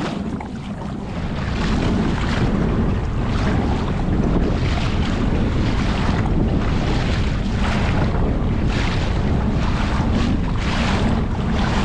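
Strong wind buffeting the microphone with a steady low rumble, over water splashing from kayak paddle strokes.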